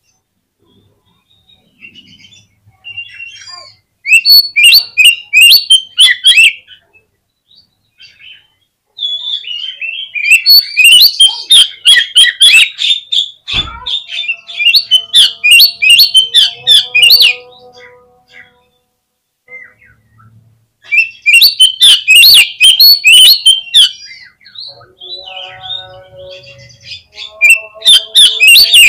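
Oriental magpie-robin (kacer) singing in loud runs of rapid, high chattering notes, with pauses of a few seconds between phrases. A single sharp knock comes in the middle.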